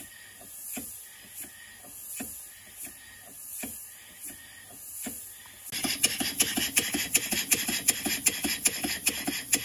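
Stevens Model Dockyard toy steam engine running with a knock on each revolution and a hiss of exhaust steam, slowly at first, then about six seconds in suddenly louder and faster with rapid knocking. The knock is the sign of a slack big-end bearing, and the owner suspects the piston is also hitting the lower cylinder end cover.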